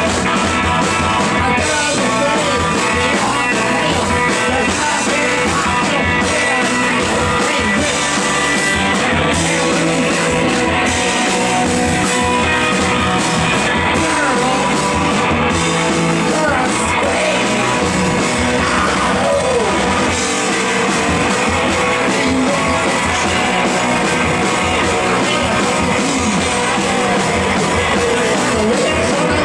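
Live rock band playing loud and steadily, with electric guitars, a baritone guitar and drums.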